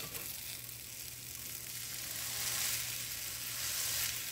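Plant-based chicken patty sizzling as it fries in a cast-iron skillet, a steady hiss that grows louder about halfway through.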